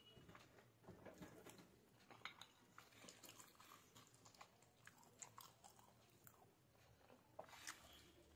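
Quiet close-up chewing of soft macaroni pasta, with a scatter of small irregular mouth clicks and a steel spoon scraping and tapping on the plate.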